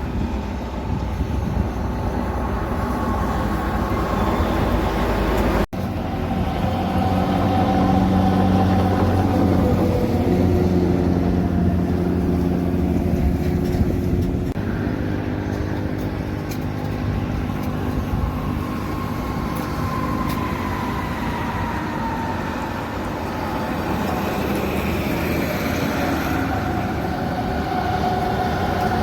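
Heavy vehicles passing with steady engine and road noise. An abrupt cut about six seconds in is followed by a drawn-out engine drone that shifts in pitch as a vehicle goes by.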